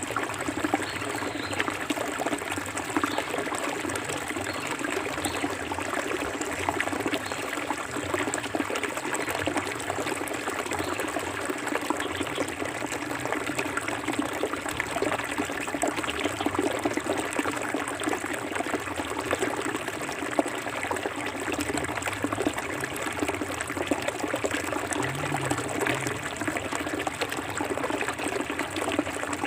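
Forest river flowing steadily, a constant trickling and splashing of running water.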